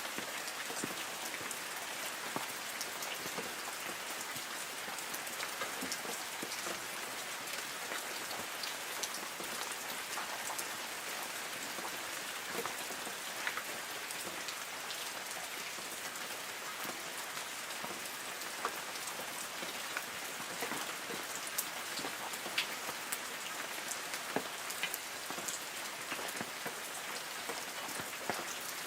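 Light rain falling on forest trees: a steady patter with many separate drops ticking on leaves.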